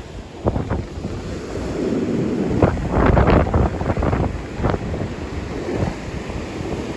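Strong wind buffeting the microphone over the rumble of surf breaking, with the loudest gusts about three seconds in.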